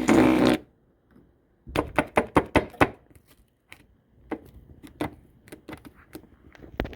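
Loud bass-boosted audio playing through an overdriven speaker cuts off abruptly about half a second in. After a short quiet gap, a run of irregular sharp clicks and taps follows, rapid at first and then sparser.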